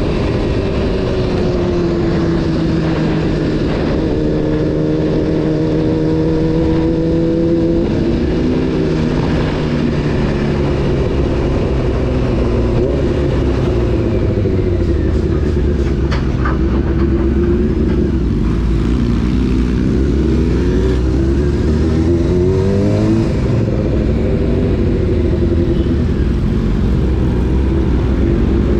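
Honda CBR600 F4's inline-four engine running under way, its pitch falling and climbing as the throttle opens and closes through the gears, with several quick rising revs in the second half.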